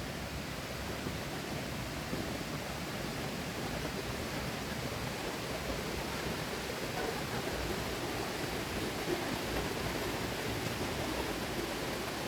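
Steady rushing of river water flowing, an even hiss with no breaks.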